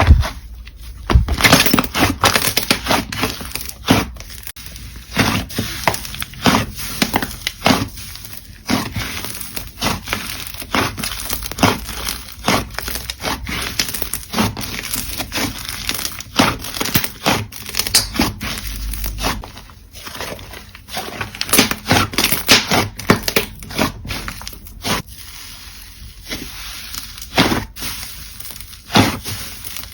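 Slime being pressed and worked by hand, giving a dense, irregular run of sharp crackles and pops.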